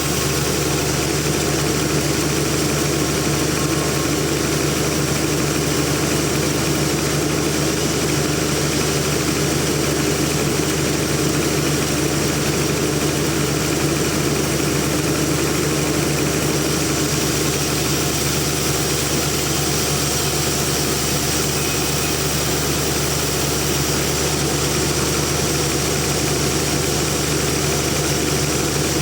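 Sawmill machinery running steadily: a constant engine-like hum with a low drone, unchanging throughout.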